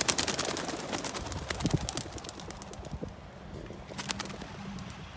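A flock of racing pigeons taking off from a release basket: a dense clatter of wing flaps and claps that thins out after about three seconds, with a second short burst of flapping about four seconds in.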